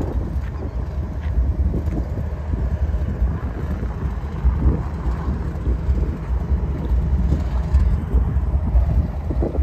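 Low, steady rumble of a CN freight train's diesel locomotives moving along the track, mixed with wind buffeting the microphone.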